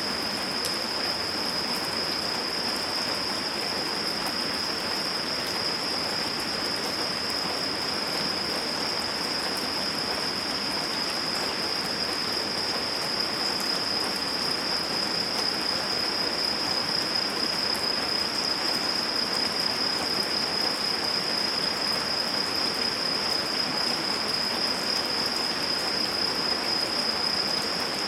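Steady rain falling, an even hiss of drops, with a continuous high-pitched insect trill over it.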